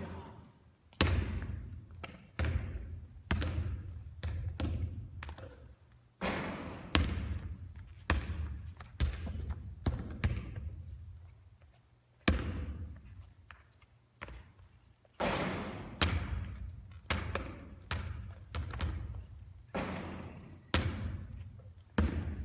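A basketball bouncing and hitting hard surfaces again and again during three-point shooting practice. The impacts come roughly once a second, each ringing on briefly after the hit, with a pause of a few seconds about halfway through.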